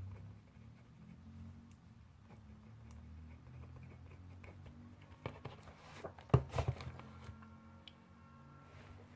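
Pencil writing on paper at a desk, soft and scratchy over a low room hum, with a short cluster of sharp knocks and clicks about six seconds in.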